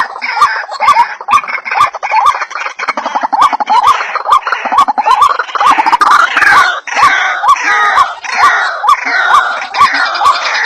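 White-breasted waterhens (ruak-ruak) calling in a chorus: harsh croaking notes repeated rapidly, about two or three a second, overlapping one another, with sharp clicking notes mixed in.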